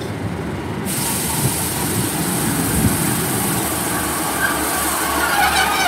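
Class 150 diesel multiple unit arriving at the platform: a steady rush of train noise that starts suddenly about a second in, with a faint squeal near the end.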